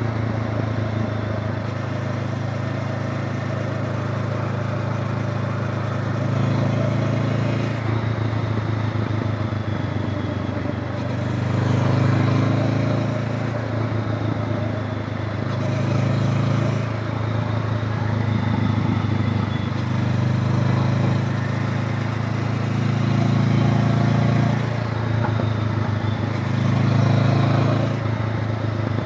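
Honda CB500X's 471 cc parallel-twin engine running while riding, its note swelling louder several times as the throttle is opened and eased off.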